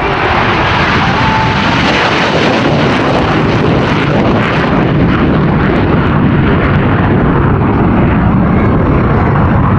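Blue Angels jet aircraft engine noise, loud and steady: a dense rush of sound with no clear tone.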